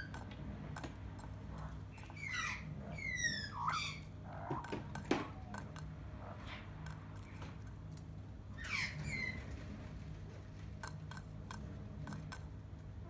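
Short falling whistled bird calls, several in quick succession about two to four seconds in and once more near nine seconds, with light taps and clicks of an Australian magpie's beak on a clear plastic cup between them, over a low steady hum.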